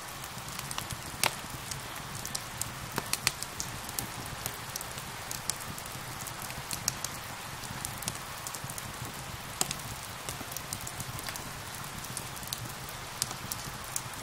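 Steady rain hiss with the sharp, irregular pops and crackles of a burning wood fire, the loudest pops about a second in and a few seconds in.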